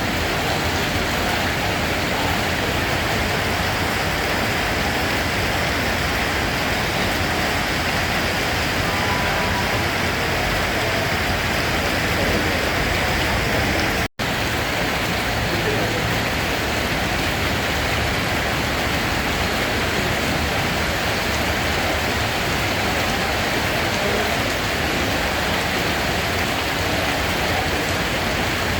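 Steady rain falling as a constant, even hiss. About halfway through it cuts out for a split second and then carries on unchanged.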